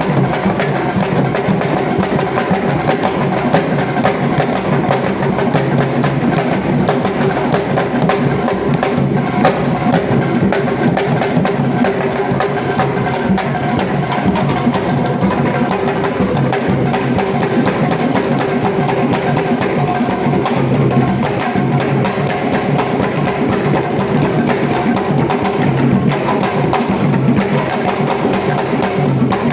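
Drum-led percussion music playing continuously at a steady, full level.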